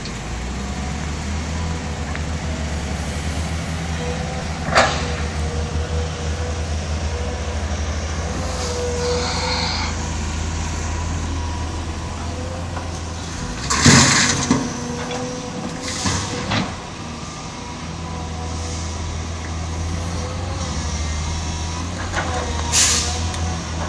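Isuzu heavy truck's diesel engine running steadily, with a sharp click about five seconds in and a loud burst of air-brake hiss around the middle, followed by a few smaller hisses and a short high hiss near the end.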